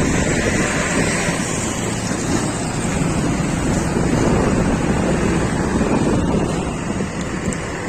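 Wind buffeting the microphone over a steady low rumble from a moving vehicle.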